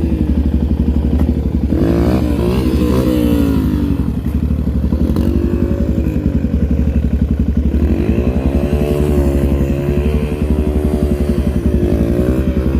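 Motorcycle engine running loud and close, revving up and easing off several times: its pitch climbs and drops about two seconds in, again from about eight to ten seconds, and once more near the end.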